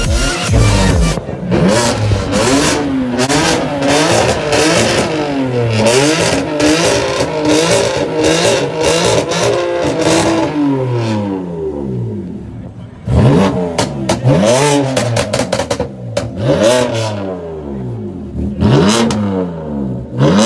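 BMW sedan's engine being revved again and again while parked, its pitch sweeping up and falling back each time, with exhaust pops and crackles on the way down. There is a short lull about twelve seconds in before the revving starts again.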